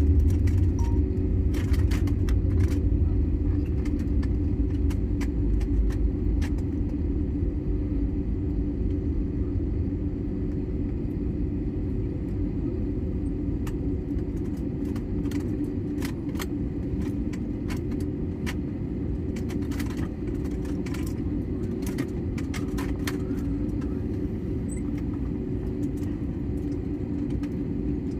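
Airliner cabin on the ground after landing: a steady engine hum over the low rumble of the wheels, loudest at first and easing off over the first several seconds as the plane slows, with scattered light clicks and rattles.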